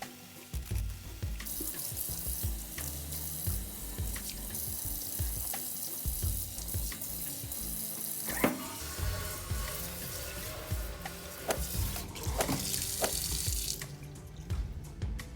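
Kitchen tap running into a sink, turned on about a second and a half in and shut off near the end, with scattered clinks and knocks.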